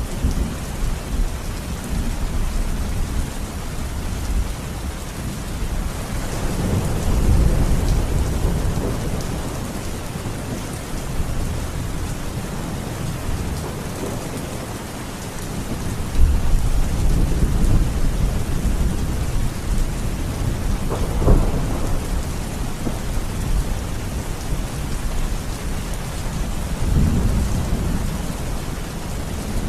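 Thunderstorm: steady heavy rain with rolling thunder that swells in several low rumbles, the sharpest clap about two-thirds of the way through.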